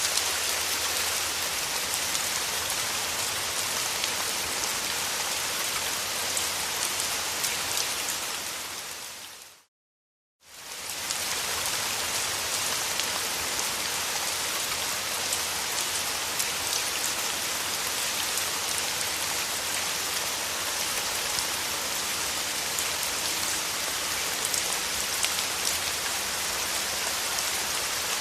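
Steady rain falling, a dense hiss flecked with fine drop ticks. About nine seconds in it fades out to a moment of silence and fades straight back in, a loop seam in the recording.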